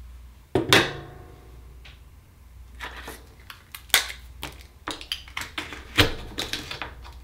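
Irregular hard clicks and knocks of Akoya oyster shells being handled and pried open. The loudest comes about half a second in and rings briefly; another strong knock comes about six seconds in, with a scatter of lighter clicks between.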